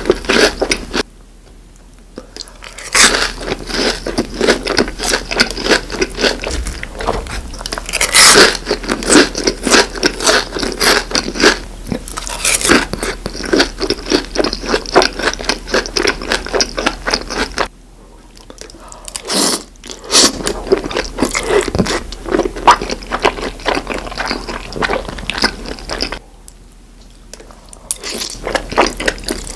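A person eating crunchy food close to the microphone: rapid crunching, biting and chewing clicks, stopping briefly three times.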